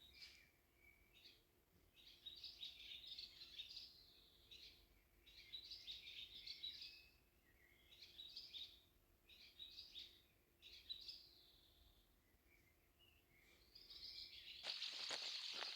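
Birds calling: about five short bursts of high chirping a couple of seconds apart, then a louder, busier run of chirps near the end.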